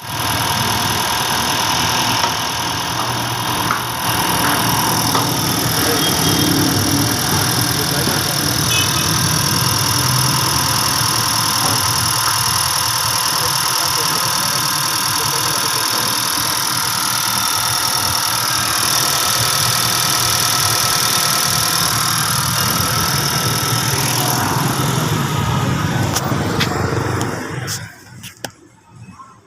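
Honda Vezel's engine running steadily and loudly, with a strong hiss over it, while its exhaust system is being cleaned. The sound drops away sharply about two seconds before the end.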